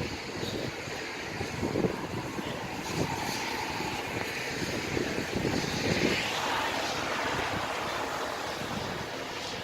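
Rain and wind noise, with uneven gusts buffeting the microphone.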